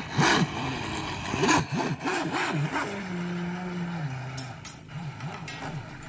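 Homemade RC boat's motor revving up and down in quick pulses, then holding a steady pitch for a second or so before stepping down. It is running with a broken propeller-shaft cross joint, the cause of its abnormal sound.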